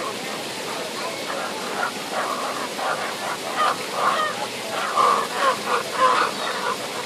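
Birds fighting, calling over and over in short squawks, loudest around five to six seconds in.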